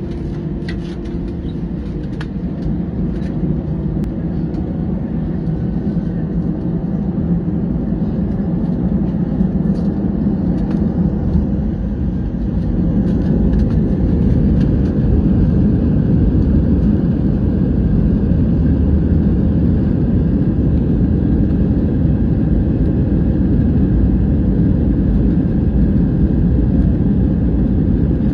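Airbus A320 jet engines during takeoff, a steady deep rumble that grows louder, stepping up about halfway through.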